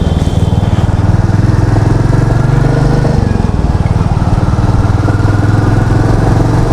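Royal Enfield Meteor 350's single-cylinder engine running as the motorcycle is ridden, a steady low exhaust note that swells slightly a couple of times.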